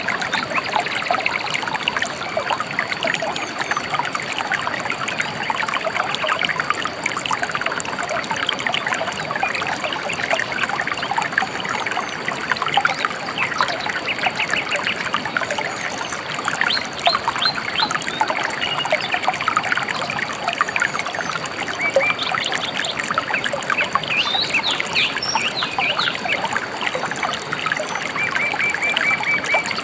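A river trickling and babbling steadily, with small birds chirping and trilling over it in short phrases, more often in the second half.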